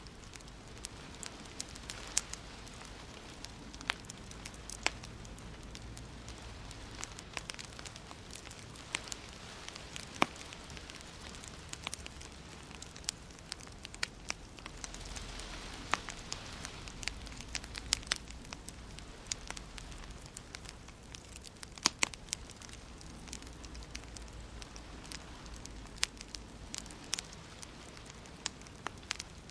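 Wood fire in a fireplace crackling, with frequent irregular sharp pops over a steady low hiss.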